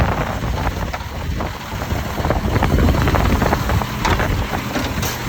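Mack side-loader garbage truck's diesel engine running, buried under heavy wind buffeting on the microphone, with a few faint clicks and knocks.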